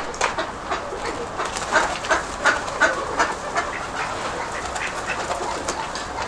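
Nikolaev pigeons at the loft: a run of short, irregular flutters and clicks, several a second, over steady wind noise.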